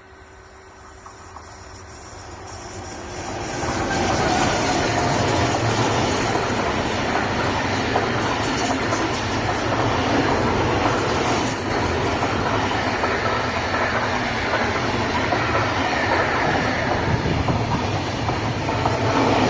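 A train approaching and passing close by on the tracks. It grows louder over the first four seconds, then holds as a steady loud rumble of wheels on rails.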